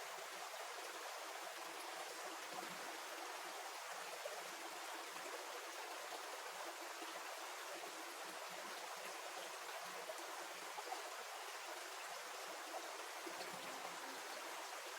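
Stream running steadily, a faint, even rushing of water.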